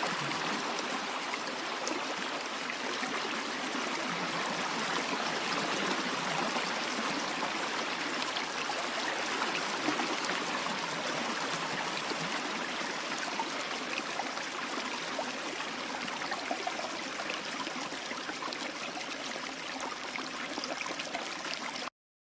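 A stream of flowing water, running steadily, which cuts off suddenly near the end.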